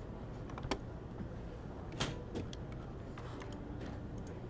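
Quiet library room tone with a steady low hum, broken by a few short sharp clicks, the loudest about two seconds in.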